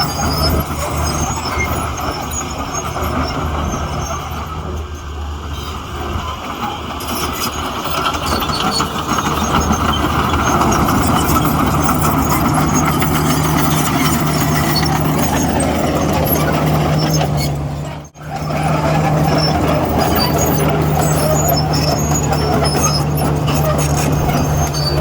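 Heavy diesel earthmoving machinery running steadily, a bulldozer and dump trucks at work with a constant low engine drone. The sound cuts out for an instant about three-quarters of the way through.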